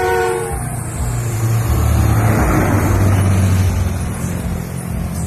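A motor vehicle passes close by, its engine a low rumble with tyre noise that builds to a peak midway and then fades. A brief steady tone, like a horn, sounds at the very start.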